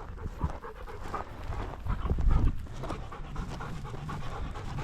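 Labrador retriever panting, with a brief louder rush of low noise about two seconds in.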